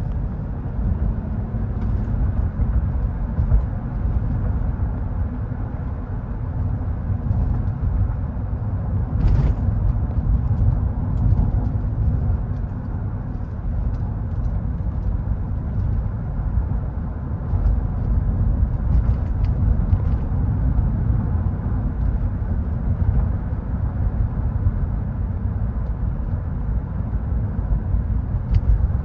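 2000 Mercedes-Benz E430 with its 4.3-litre V8 on the move: a steady low rumble of engine and road noise, with a few faint clicks.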